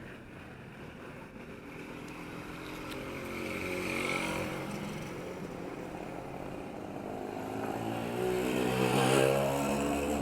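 Motor vehicles passing on a town street: one engine builds and passes about four seconds in, then a louder one comes close near the end before fading.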